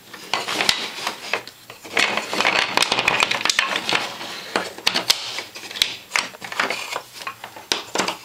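Toy trains clicking and clattering against the track and each other as a small child pushes them along a train table: an irregular run of small clicks and knocks.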